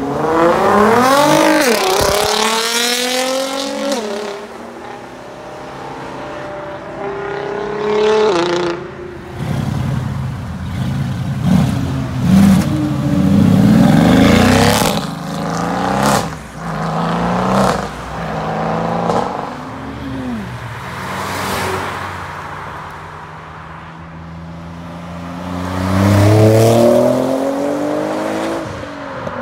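Sports cars accelerating hard away one after another, engine notes rising in pitch and dropping back at each gear change: a Nissan GT-R's twin-turbo V6 first, a Mercedes-AMG GT's V8 midway, and a Nissan 370Z near the end.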